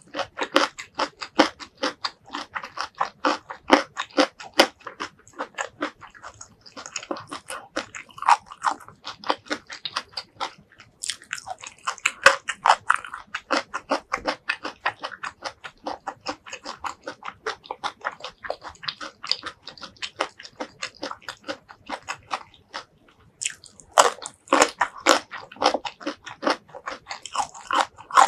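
Close-miked chewing and crunching of stir-fried broccoli, a quick run of crisp crunches throughout. There is a louder burst of bites near the end.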